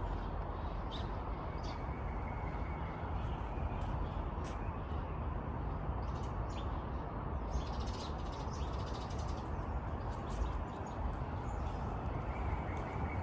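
Birds calling in short, scattered high chirps over a steady background hiss with a low rumble.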